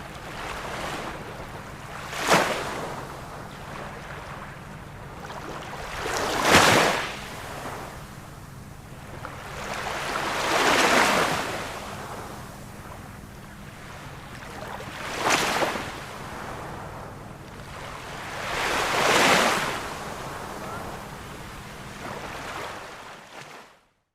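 Ocean waves breaking on a shore, each swelling and washing back over a steady hiss of surf, about one every four to five seconds. The sound cuts off suddenly near the end.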